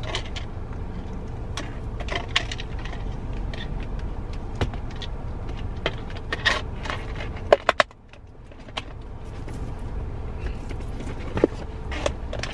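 Scattered clicks, taps and light rattling of things being handled inside a parked or idling car, over a steady low cabin rumble. A few sharper knocks come about seven and a half seconds in, and then the rumble briefly drops away.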